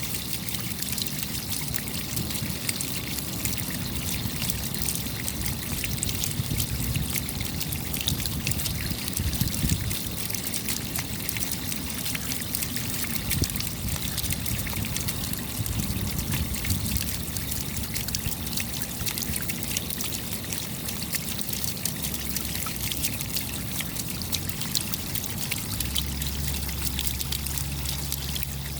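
Steady rain falling, a dense, even patter of countless small drop impacts.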